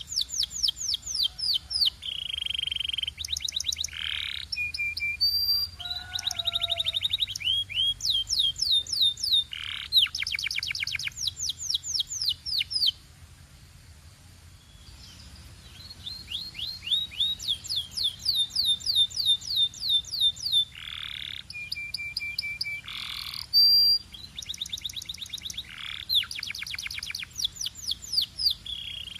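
Canary singing: rapid trills of quickly repeated high, falling notes, with a few held whistles between them. The song breaks off briefly near the middle, then resumes.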